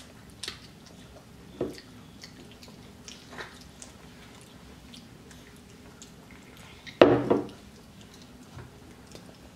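Children chewing chicken nuggets, soft wet mouth clicks and smacks. One sharp knock near the end, louder than everything else.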